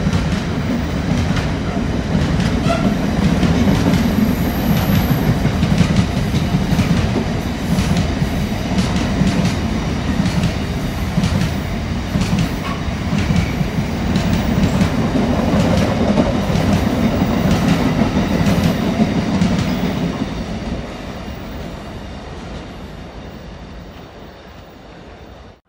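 Freight train of covered wagons rolling past at speed: a steady rumble with wheels clicking over the rail joints, fading away over the last five seconds or so as the end of the train draws off.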